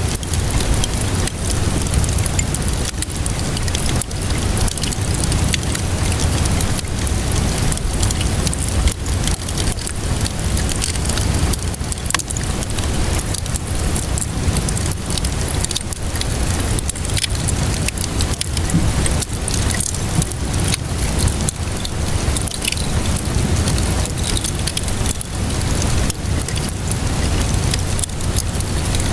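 Steady rainfall mixed with a fireplace crackling, with frequent small pops and a low rumble underneath.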